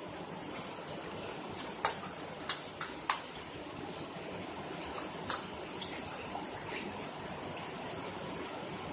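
Steady rain falling, with a run of sharp taps or splashes about one and a half to three seconds in and two more around five seconds in.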